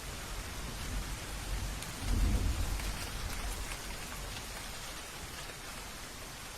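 Steady rain falling, with a low roll of thunder that swells about two seconds in and then slowly fades away.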